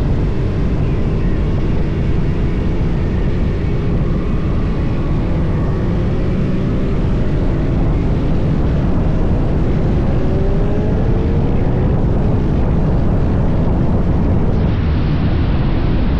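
Motorcycle running at road speed, its engine note sliding gently up and down under a heavy, steady rush of wind noise on the microphone.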